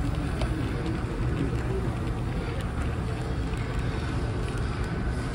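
Steady low rumble of room ambience with faint background chatter.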